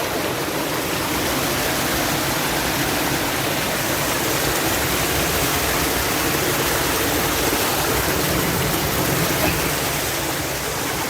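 Forest stream rushing steadily over rocks, an even, continuous water noise.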